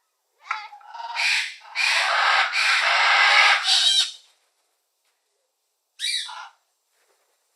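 A bird giving a string of harsh, raspy squawking calls over about four seconds, then a single shorter squawk about six seconds in.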